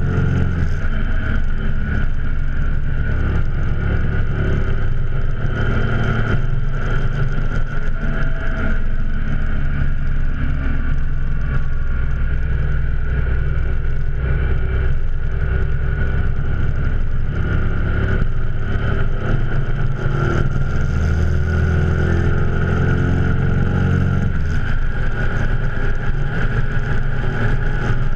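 Motorcycle engine running steadily under way, with wind rushing past. The low engine note drops away about three-quarters of the way through, as the throttle eases.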